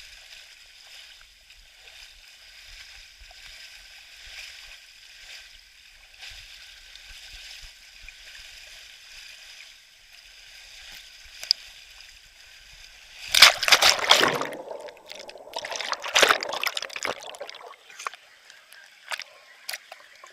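Water running steadily down a water slide, then a loud rush of splashing for about three and a half seconds, starting about two-thirds of the way through.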